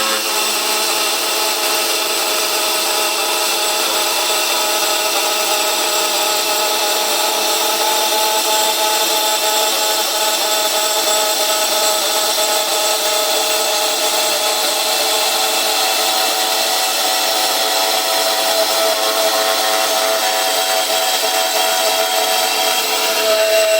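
Axxair powered pipe cutter running steadily, its saw blade cutting through the metal tube with a continuous whine.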